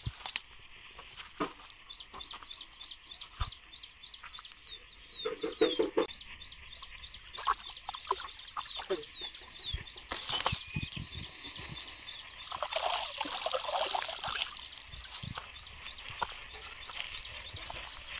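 Birds calling outdoors: a high chirp repeated about three to four times a second for much of the time, with a few short falling whistles, over scattered light knocks and rustles.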